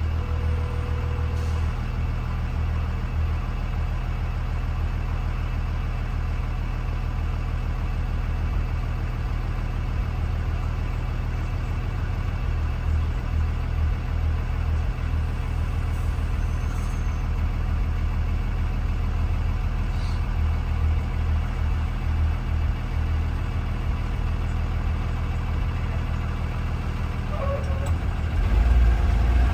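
2020 Blue Bird Vision school bus engine running with a steady low drone, growing louder near the end as it picks up revs.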